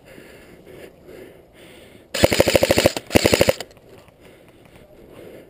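Airsoft automatic electric gun (AEG) firing two short full-auto bursts, about fifteen shots a second, with a brief pause between them.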